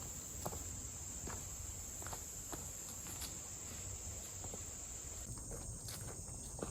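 Crickets chirring in a steady, high-pitched chorus, with a few faint footsteps.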